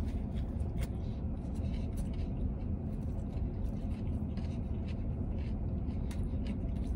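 A man chewing a mouthful of a soft wrap, with scattered faint wet mouth clicks, over the steady low rumble of an idling vehicle heard from inside its cabin.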